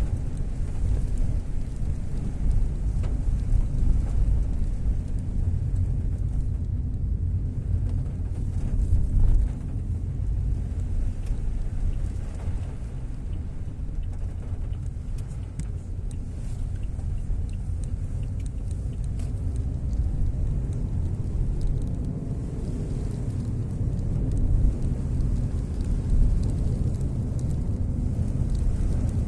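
Fairly heavy rain falling, as a steady wash of noise with a strong low rumble underneath.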